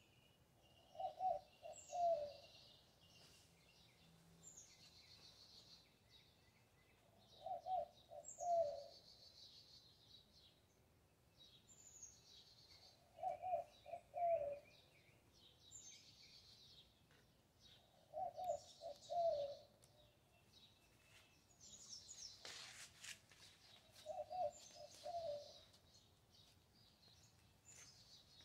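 Birds calling: a low cooing phrase of a few quick notes repeats about every five to six seconds, with another bird's high chirping phrases in between.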